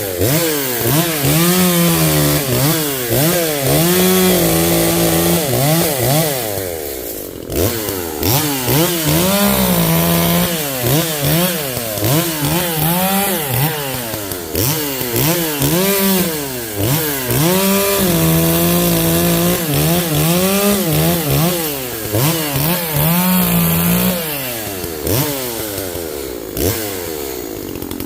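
Echo CS-590 Timberwolf chainsaw, a 59.8 cc two-stroke, cutting through limbs: the engine revs up and falls back again and again, held steady at full throttle for a few seconds at a time while the chain is in the wood, and briefly drops off about seven seconds in.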